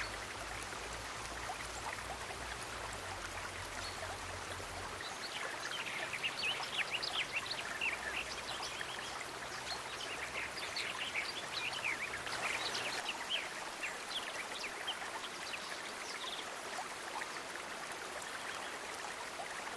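Steady rush of running water, like a stream. About five seconds in, a dense flurry of short high-pitched sounds sits over it for several seconds.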